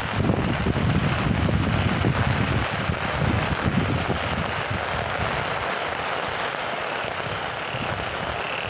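Steady heavy rain with close, crackling drops, and wind gusting on the microphone for the first few seconds before it eases.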